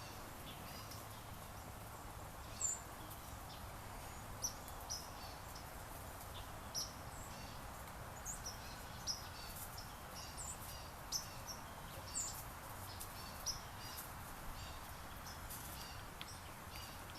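Wild songbirds chirping: many short, high chips and calls scattered irregularly over a steady background hiss.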